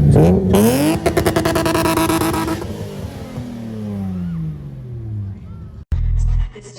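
A car engine being revved: the pitch climbs, holds at high revs for a couple of seconds, then falls away as the throttle is released. Near the end it cuts to loud electronic music with heavy bass.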